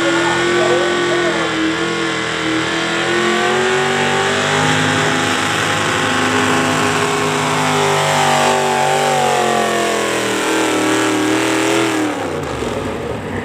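Pulling tractor's engine running hard at high revs under load, its pitch sagging slowly. About twelve seconds in, the revs drop off sharply as the engine backs off.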